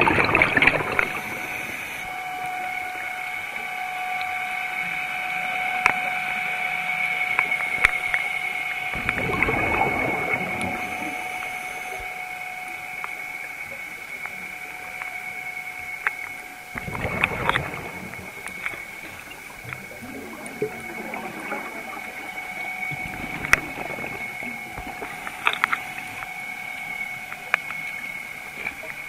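Scuba diver breathing through a regulator underwater: bubbly exhalation bursts about every eight seconds, over a steady high-pitched hum.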